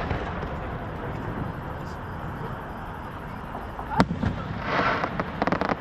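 Fireworks going off: a constant low rumble of bursts, one sharp bang about four seconds in, then a spell of crackling and a quick run of crackles near the end.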